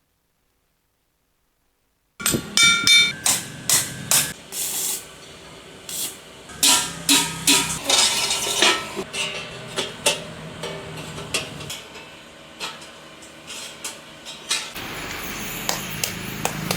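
Hammer blows on metal parts, struck repeatedly and irregularly, some leaving a short ringing tone. A hissing stretch of about a second comes near the middle, and a steady rushing noise takes over near the end. The sound starts after about two seconds of silence.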